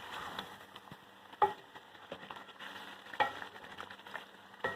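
Chicken karahi gravy sizzling in the pan as it is stirred, with a utensil knocking sharply against the pan three times.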